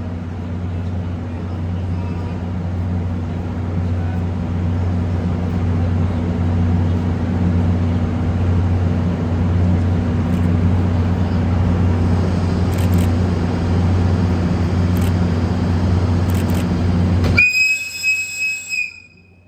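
EF64 electric locomotive pulling its train out, a steady rumble with a low hum that slowly grows louder. About seventeen seconds in it breaks off abruptly into the locomotive's whistle: one high, shrill tone held for about a second and a half, then fading.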